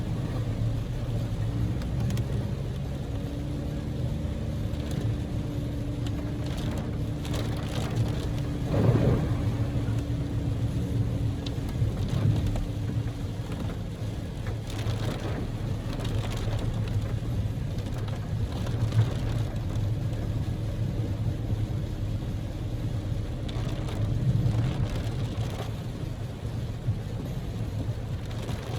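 Cabin noise of a Daihatsu Move (L150S) on the move: the steady drone of its 660 cc three-cylinder EF-VE engine and tyre noise, with rain on the car.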